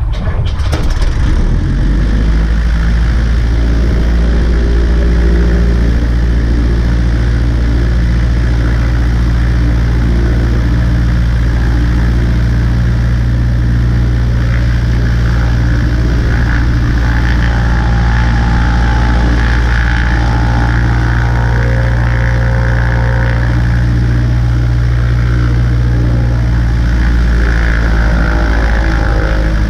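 Cessna 140A's light-aircraft piston engine coming up to power at the start, then running steadily with a low, even drone. The engine note shifts slightly near the end.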